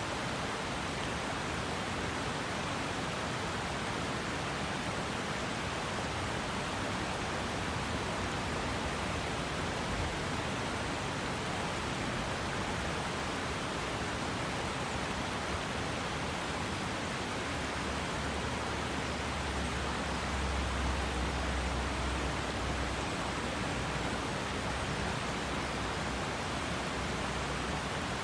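River water rushing and flowing steadily, an even wash of water noise. A low rumble swells for a few seconds past the middle.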